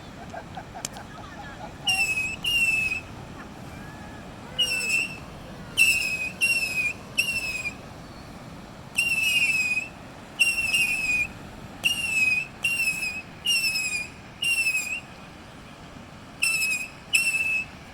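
High whistled notes, each about half a second long and slightly falling at the end, repeated in quick runs of two to five with short pauses between.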